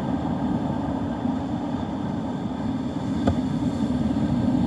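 Wind buffeting the microphone on a storm-blown beach, a steady low rush, with one brief click about three seconds in.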